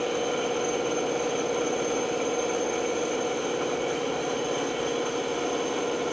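Band saw running with a steady, even hum.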